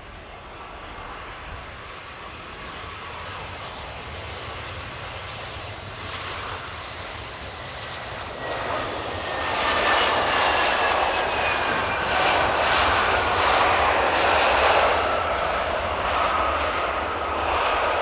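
Airbus A320 jet on landing approach passing close by. The engine whine grows much louder about nine seconds in and slides slowly down in pitch as the plane goes past, over a steady low wind rumble on the microphone.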